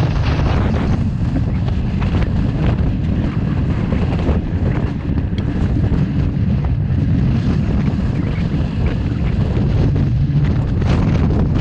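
Strong wind blasting across the microphone: a loud, steady low rumble of wind noise.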